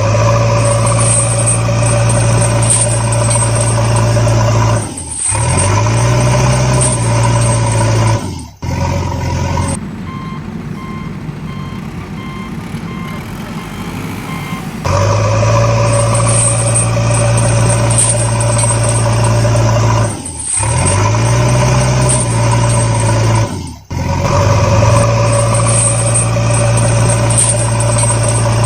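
Truck engine sound effect running steadily in repeating loops, cut by short dips, with a stretch of evenly spaced electronic reversing beeps, about two a second, in the middle.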